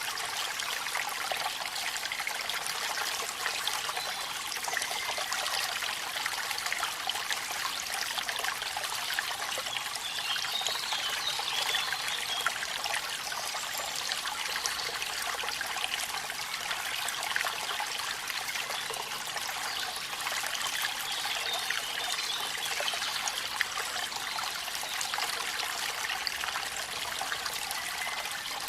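Steady trickling and splashing of falling water at a small waterfall, a bright, hissy sound with little deep rumble.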